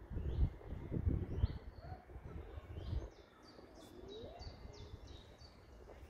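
Songbirds singing: a series of short, high, repeated notes that come in a quick run in the middle. Under them, a low rumbling noise eases off about three seconds in.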